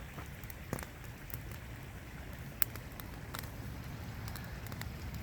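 Outdoor rain ambience with a steady low rumble and a few scattered sharp ticks.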